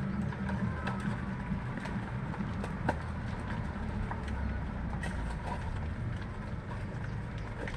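A steady low rumbling noise with scattered faint clicks or taps.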